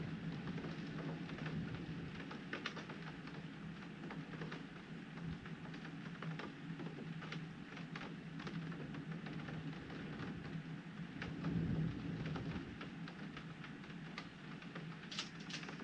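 Heavy rain pattering on window glass, with many sharp drop ticks over a steady wash. A low rumble of thunder swells briefly about three quarters of the way through.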